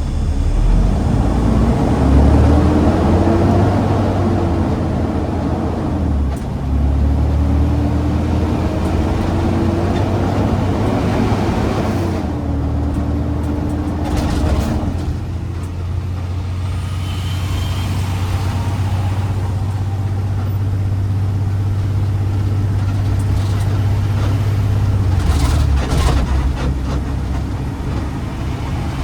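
Garbage truck engine pulling away and accelerating, its pitch climbing and dropping back at each gear change over the first fifteen seconds, then running at a steady speed.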